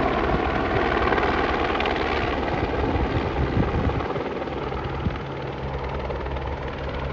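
Type 3 light helicopter running steadily with the beat of its rotor, growing somewhat fainter after about four seconds.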